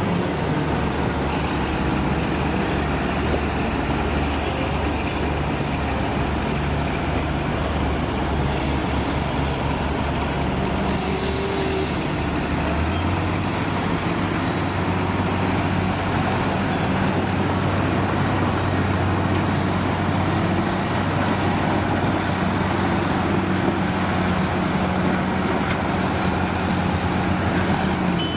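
Heavy vehicle's diesel engine running steadily, its note stepping up as the revs rise about halfway through.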